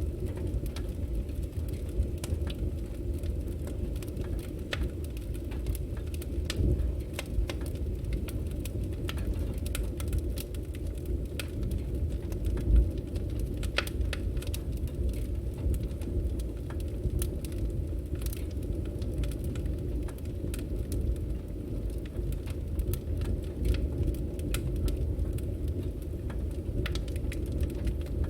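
Burning firewood: a steady low rumble of flames with frequent sharp crackles and pops, one louder pop about thirteen seconds in.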